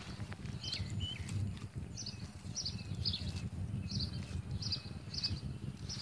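A bird chirping over and over, short high chirps about two a second, over a low steady rumble.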